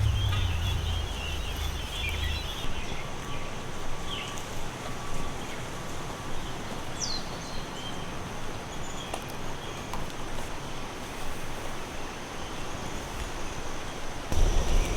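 Outdoor ambience: scattered bird chirps over a steady background hiss, with one falling whistled call about seven seconds in. A low rumble sits under the first couple of seconds and comes back louder just before the end.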